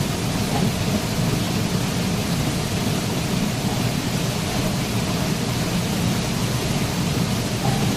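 Waterfall: a steady, full rush of falling water with a deep rumble underneath, unchanging throughout.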